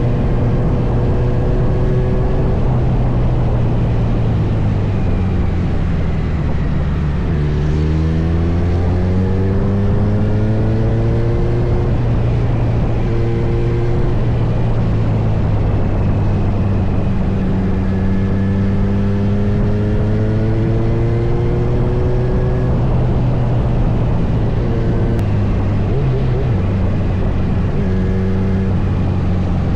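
Kawasaki Z900's inline-four engine running under way, its note rising twice as the bike accelerates through the gears and dropping near the end as it shifts or rolls off, with wind rushing over the microphone.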